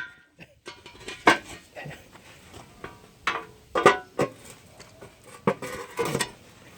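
Sheet-metal tractor fender clanking and knocking against the garden tractor's frame as it is shifted into position for bolting: a series of sharp metallic knocks, several with a brief ring.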